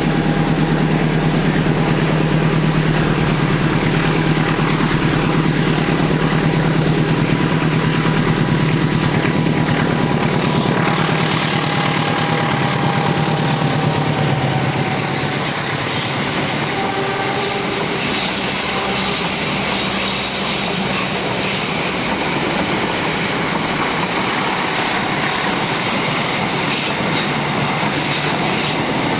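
Diesel locomotive-hauled passenger train passing on a curve. The locomotive's engine drone fills the first half, then gives way about halfway through to the clattering rumble of the coaches' wheels on the rails.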